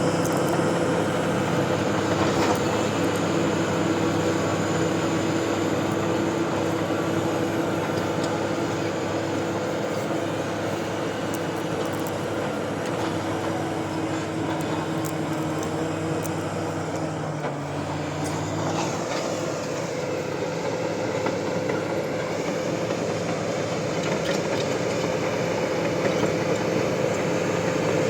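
Bulldozer's diesel engine running steadily, its note dipping and shifting briefly about two-thirds of the way through.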